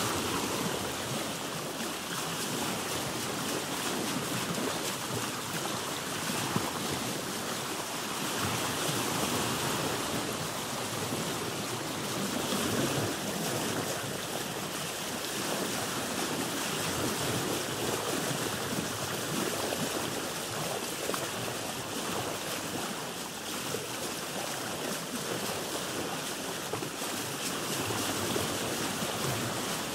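Sea water washing and lapping against a boat's hull, a steady wash with small irregular splashes.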